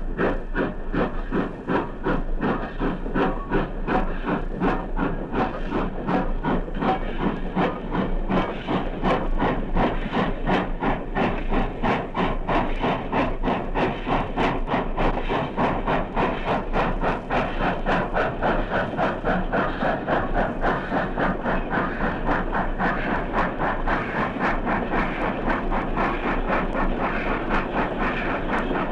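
Steam locomotive working under steam, its exhaust beating in a quick, even rhythm over a steady hiss, on a 1956 recording.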